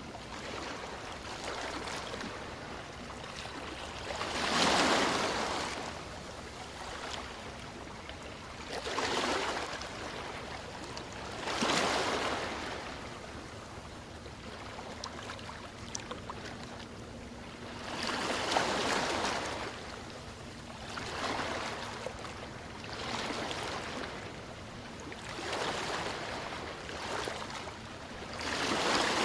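Waves washing onto a shore, each one swelling and fading every few seconds over a steady hiss.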